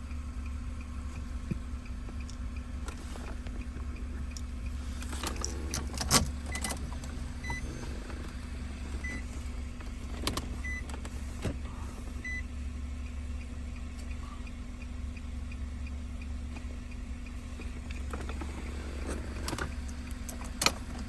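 Car key handled at a 2003 Infiniti G35's ignition: sharp clicks and key jangling, the loudest click about six seconds in, over a steady low hum. A few faint, short high beeps sound between about six and twelve seconds. The ignition is being cycled as part of the immobilizer key-programming routine.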